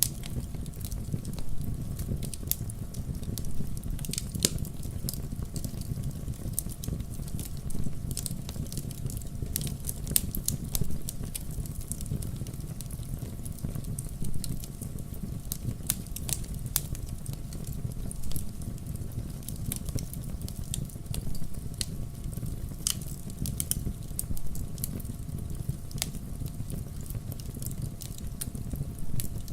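Fireplace fire crackling: irregular sharp pops and snaps, a few louder ones standing out, over a steady low rumble of the burning fire.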